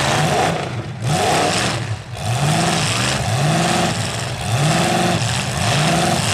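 Demolition derby car engines revving hard over and over, the pitch surging up and falling back in quick repeated arcs over a steady noisy rush.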